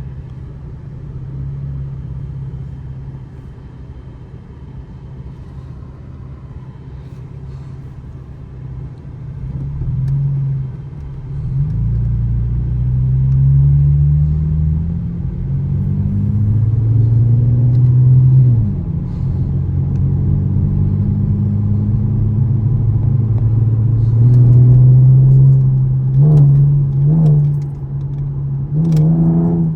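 2013 Chevrolet Camaro LS's 3.6-litre V6 and exhaust cruising with a steady low drone, then accelerating with the revs climbing, falling back once at a gear change and climbing again. Near the end the revs dip and jump a few times in quick succession, as with downshifts.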